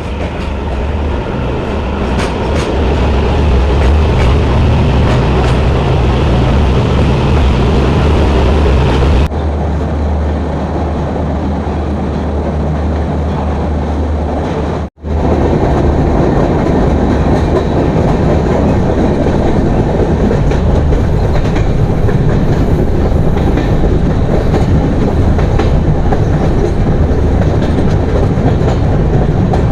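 Passenger train running along the track: a steady, loud rumble of wheels on rail with a heavy low hum. The sound changes abruptly about nine seconds in and cuts out completely for an instant around the middle.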